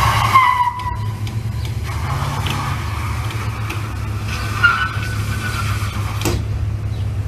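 An engine running steadily with a low drone, with a brief high squeal that falls in pitch near the start and a fainter one about five seconds in.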